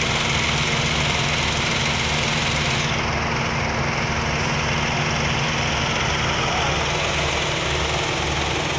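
Mahindra XUV 3XO engine idling steadily with a low, even drone; a higher hiss over it drops away about three seconds in.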